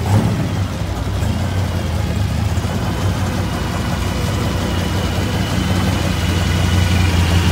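Rat-rod pickup's exposed engine, topped with tall intake stacks, idling with a steady low rumble that grows a little louder toward the end.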